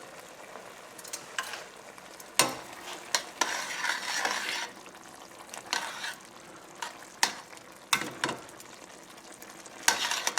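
A spoon stirring chicken and vegetables in a pot on the stove, clinking against the pot now and then, with a short spell of sizzling about four seconds in.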